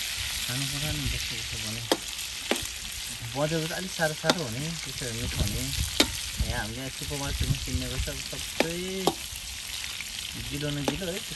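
Food frying in hot oil in a pan, sizzling steadily, while it is stirred, with sharp knocks of the spoon against the pan every second or two. Voices come and go in the background.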